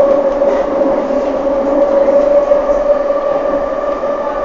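London Underground C stock train running between stations, heard from inside the carriage: a steady whine over the even rumble and hiss of the running gear.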